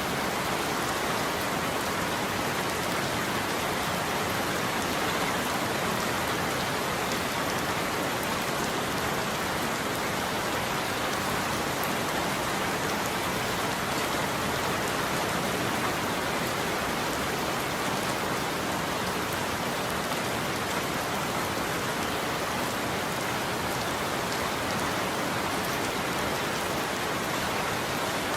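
Steady heavy rain falling on a roof: an even, unbroken hiss of dense drops, with no thunder.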